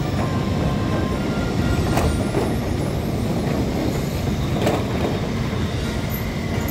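Passenger train running past on the line: a steady, loud rumble of wheels on rail, with two sharp clicks about two seconds apart.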